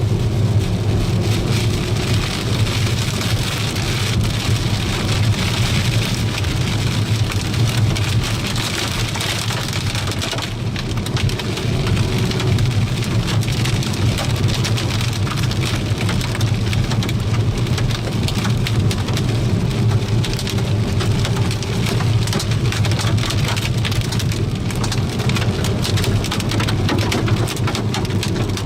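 Heavy thunderstorm rain falling, a dense crackle of drops striking hard surfaces, over a steady low rumble.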